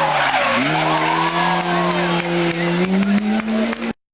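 Rally car engine at high revs on a stage: the note drops briefly about half a second in, jumps back up and holds, climbing a little, then cuts off abruptly near the end.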